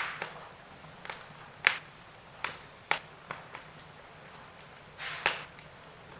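Wood fire in a fireplace crackling, with sharp pops at irregular intervals over a faint steady hiss.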